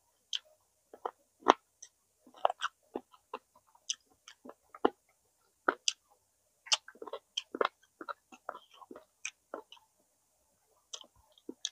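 A person eating smoked chicken close to the microphone: irregular chewing and biting, a rapid uneven scatter of sharp clicks and crunches.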